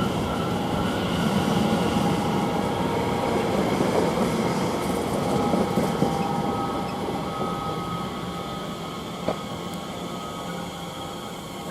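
Greater Anglia Class 720 electric multiple unit running alongside the platform, a steady rumble with a thin electric motor whine. The noise eases off over the second half, with one sharp click about nine seconds in.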